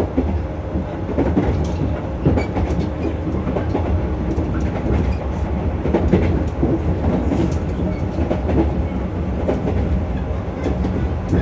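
Running sound inside a JR West 115 series electric train: a steady rumble from wheels on rail, with irregular rail-joint clicks.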